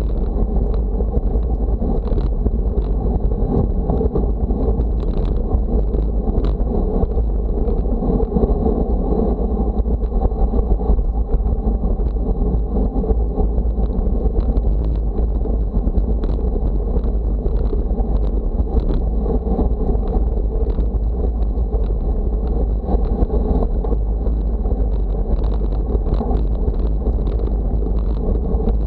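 Steady wind noise on the microphone, mostly a dense low rumble without breaks.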